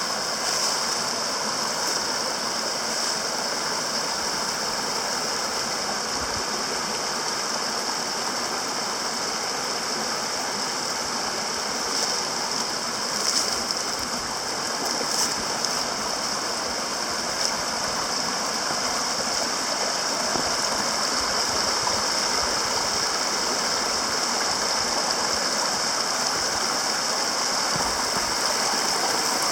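Water of a creek or small waterfall rushing steadily, with a few faint clicks around the middle.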